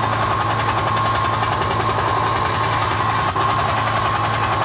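Recorded helicopter noise played loud through a speaker: a steady, rhythmic rotor chop under a constant high tone.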